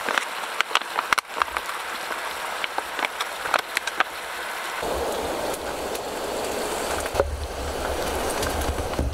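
Sausage and vegetable stir-fry sizzling in a skillet on a camp stove as riced cauliflower is poured in, with scattered crackles and pops. About five seconds in, this gives way to a steadier rushing noise with a low rumble.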